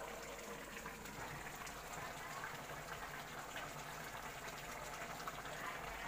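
Faint, steady watery hiss with light scattered ticks.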